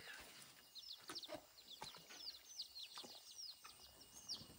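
Faint chirping of small birds: many short, high, falling chirps in quick succession.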